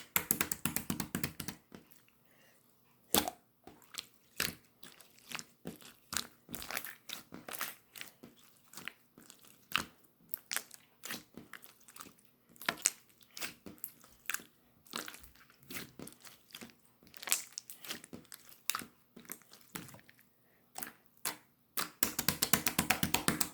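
Blue slime being squished and pressed by hand, giving irregular wet pops and clicks, with fast runs of crackling pops at the start and again near the end.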